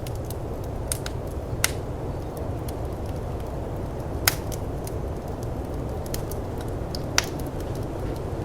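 Wood fire crackling, with sharp pops at irregular intervals, about four loud ones and several fainter ticks, over a steady low rumble of snowstorm wind.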